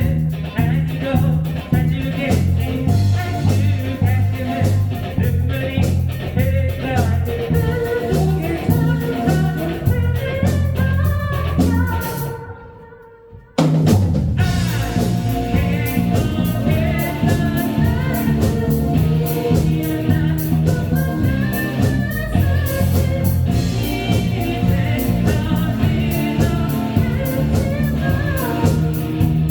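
Live band with a lead singer, electric guitar, bass, keyboard and drums playing a pop-rock song. About halfway through, the band stops almost completely for a second and a half, leaving a fading held note, then comes back in all together.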